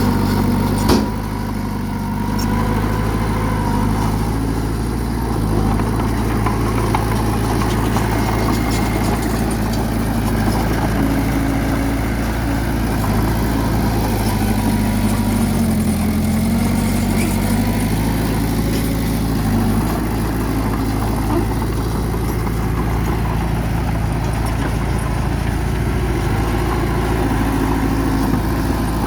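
Bulldozer's diesel engine running steadily, its pitch dipping and recovering about halfway through, with a sharp knock about a second in.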